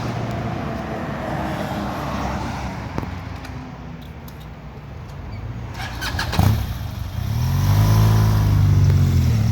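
Road traffic passing. Near the end a vehicle engine draws close and gets louder, its pitch bending as it goes by, just after a brief cluster of clicks.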